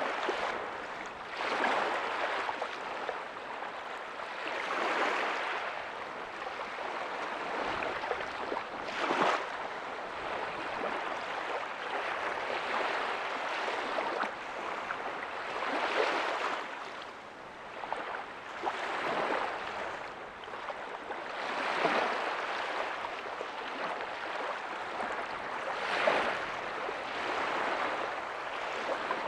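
Ocean waves breaking softly on a beach: a continuous wash of surf that swells and falls back every few seconds.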